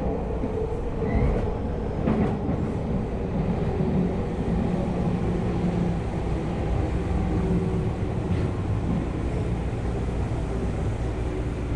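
Tokyu Oimachi Line electric commuter train running, heard from inside the passenger car: steady wheel-on-rail and running-gear noise as it travels along a station platform.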